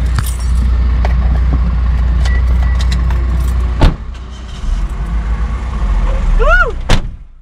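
Car engine running with a steady low rumble, heard from inside the cabin. A sharp knock comes about four seconds in, and near the end there is a short tone that bends up and then down before the sound cuts off.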